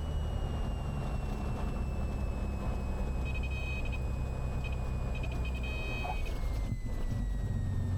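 Cessna 182's engine droning at reduced power, its pitch slowly falling, on the landing approach. Two short groups of beeps sound about three to six seconds in.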